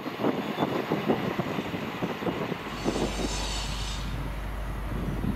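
Wheels of a departing freight train's box wagons clacking over the rail joints, fading as the train moves away. About two and a half seconds in, a steady low rumble takes over, with about a second of high hiss, as a Class 150 diesel multiple unit approaches.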